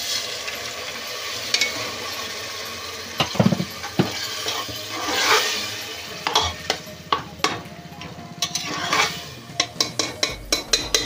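Water poured into hot onion-tomato masala in a pressure cooker sizzles. A metal spatula then stirs and scrapes against the pot, with quick clicks coming thicker toward the end.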